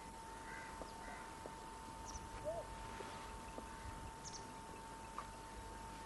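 Faint outdoor ambience: a few scattered short bird calls over a constant high steady hum.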